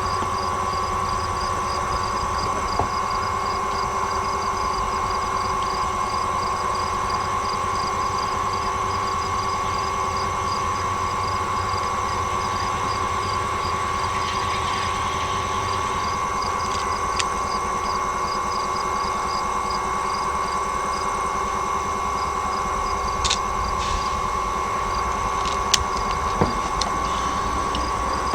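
Steady mechanical hum with a constant high tone and low rumble, like an engine running, with a faint regular ticking and a few sharp clicks near the end.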